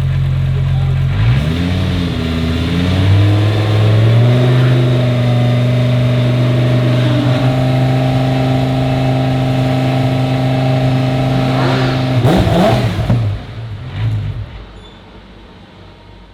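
Lamborghini Huracán Super Trofeo EVO2 race car's V10 engine warming up: it idles, swings up in revs about a second in, and is held at a steady raised rpm for about eight seconds. Then the revs drop with a burst of crackling and the sound falls away near the end.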